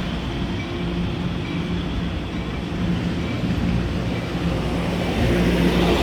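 Diesel train engine running with a steady low hum, and a faint ding repeating about every three-quarters of a second.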